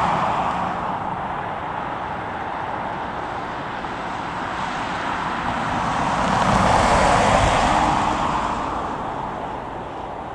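Jet airliner engine noise, an even rush that swells to its loudest past the middle and then fades away as the aircraft passes.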